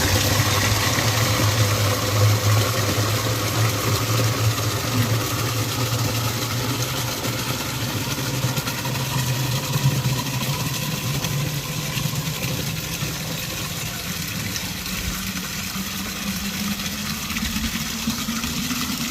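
Water running steadily into a water container, with a low hum that slowly rises in pitch toward the end.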